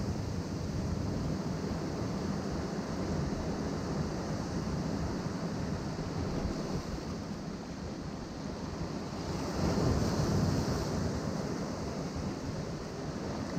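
Ocean waves breaking and washing among shoreline rocks: a continuous rush of surf that swells louder about ten seconds in as a bigger wave comes through, with wind buffeting the microphone.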